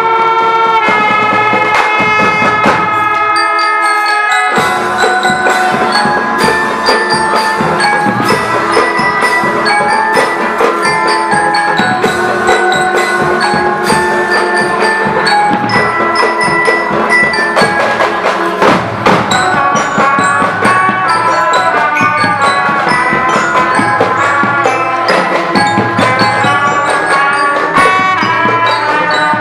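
Marching band playing a fast tune, with struck mallet percussion such as glockenspiel or marimba carrying the melody over percussion.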